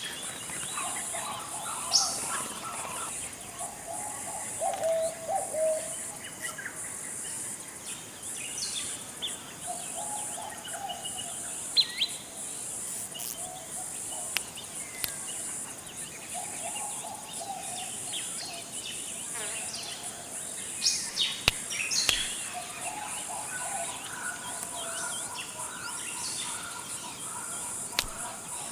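Forest ambience: a steady high insect drone runs under scattered bird calls. The calls are short, sharp high notes and lower warbling phrases, with a few sharp clicks a little past the middle.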